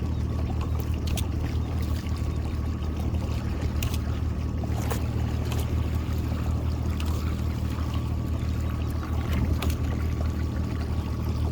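Boat engine running steadily at low speed, with water trickling and a scatter of light clicks and splashes.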